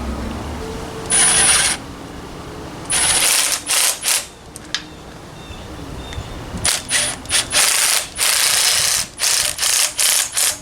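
Pneumatic wrench running bolts in short trigger pulls: about a dozen bursts, several starting with a thin high whine, one near the start, a quick cluster about three seconds in, and a rapid run from about seven seconds to the end.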